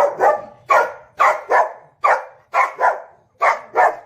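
A dog barking loudly about ten times, the barks often coming in quick pairs.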